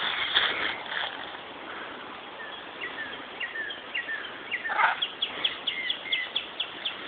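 Birds chirping: a series of short, downward-sliding chirps about two a second, then a quicker run of higher chirps, with one louder call a little before five seconds in.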